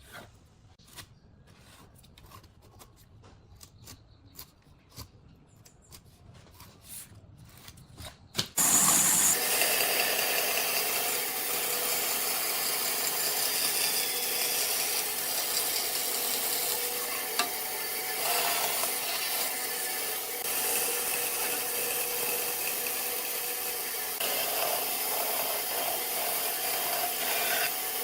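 A few faint clicks and taps, then about eight seconds in an electric power tool starts abruptly and runs steadily, working wood with a loud, even noise over a steady hum.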